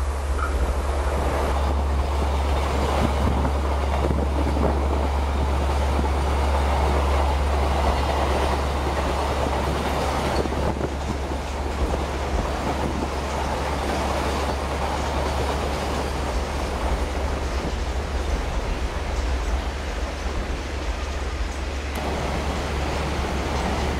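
Shinkansen bullet train running fast through snow: a steady rushing noise of the train moving over a constant low rumble.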